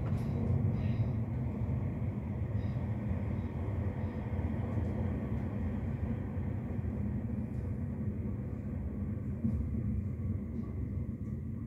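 Electric commuter train heard from inside the carriage: a steady low rumble of wheels on rails and running gear. The higher part of the sound fades and the whole grows a little quieter near the end as the train slows alongside a station platform.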